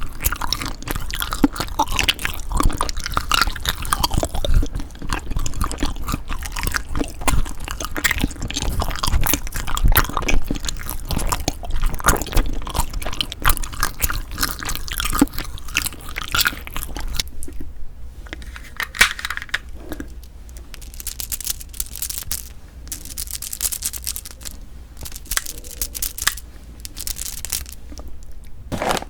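Close-miked eating sounds: irregular crunching and chewing of frozen cream cheese and ice rice cake, busy at first and coming in sparser clusters after about seventeen seconds.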